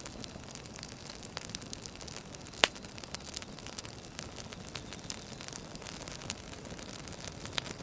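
Firewood burning and crackling over a steady hiss, with scattered small pops and one sharp, louder pop a little over two and a half seconds in.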